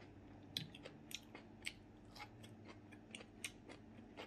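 A person chewing crunchy cooked vegetables: faint, scattered crunches and wet mouth clicks, about a dozen of them.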